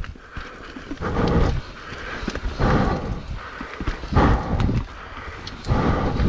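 A mountain biker breathing hard while riding, with a heavy exhale about every second and a half.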